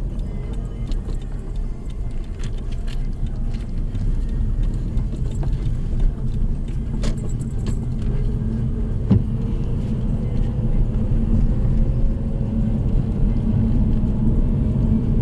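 Car running on the road, heard from inside the cabin: a steady low rumble of road and engine noise with scattered small clicks and rattles. It grows louder, and a faint engine tone rises through the second half as the car gathers speed.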